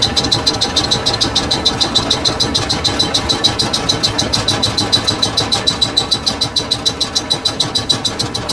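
Lathe running in a workshop, with sharp, evenly spaced ticks about eight times a second, each with a high ring, over the machine's steady hum.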